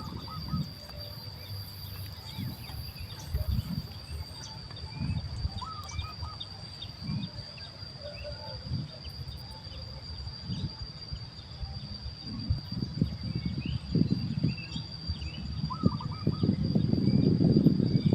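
Outdoor ambience: a steady high-pitched insect buzz throughout, with scattered short bird chirps and a short repeated chirping phrase heard a few times. A low gusty rumble comes and goes and grows loud near the end.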